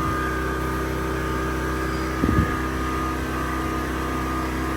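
A machine running with a steady hum, loud enough to compete with a voice. A brief low thump about two seconds in.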